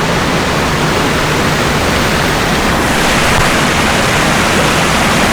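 Waterfall's falling water rushing, a loud, steady noise that grows a little brighter about three seconds in.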